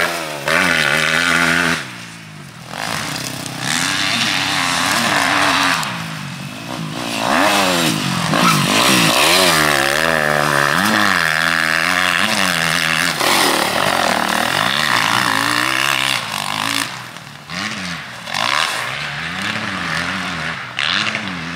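Motocross bike engine revving hard, its pitch rising and falling again and again as the throttle is opened and closed and gears are changed, with brief drops where the throttle is shut off.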